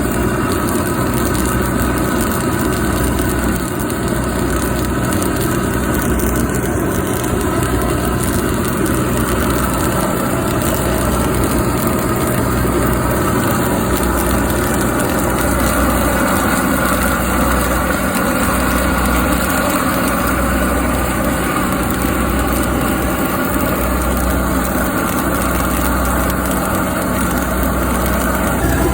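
An engine idling steadily, with a low throb that swells and fades every couple of seconds.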